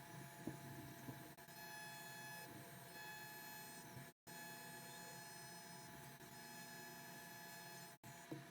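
CNC WE tattoo machine buzzing steadily and faintly as it runs, cutting out briefly twice.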